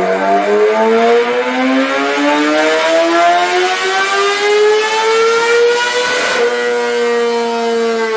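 2026 Kawasaki Ninja ZX-6R's inline-four running through an M4 full exhaust with the baffle out, rising steadily in pitch for about six seconds, as in a dyno pull. There is a brief rasp about six seconds in, then the engine holds a high note and starts to drop near the end.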